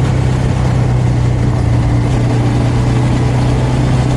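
Small motorcycle engine running at a steady speed while riding, a constant hum over road and wind noise.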